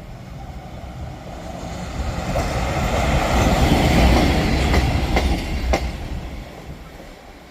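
A České dráhy train passing by, its rumble swelling to a peak about four seconds in and then fading, with a few sharp clicks of the wheels over the rail joints as it goes by.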